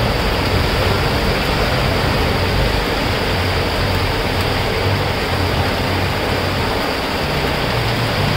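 Heavy rain pouring onto a wet road and parked motorbikes: a dense, steady hiss. A low rumble from vehicles passing on the wet road comes and goes underneath.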